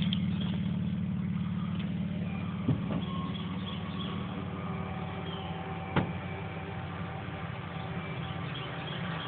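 1964 Chevrolet Chevelle's engine idling steadily, with two short sharp clicks about three and six seconds in.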